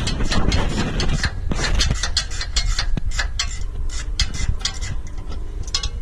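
A thread tap being turned to rethread a rusty ground-bolt hole, clearing out the rust for a better ground, with many quick, irregular clicks.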